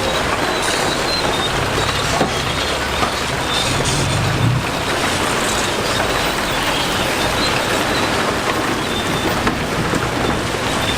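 Heavy diesel construction machinery running, with a steady rough noise throughout and a low engine hum that swells briefly a few seconds in.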